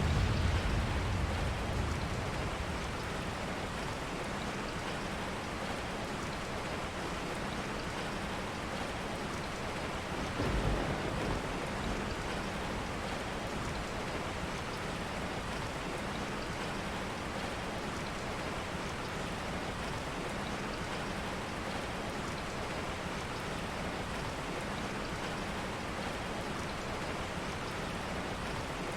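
Steady rain with low rumbles of thunder: one fading away over the first couple of seconds, and a shorter one about ten seconds in.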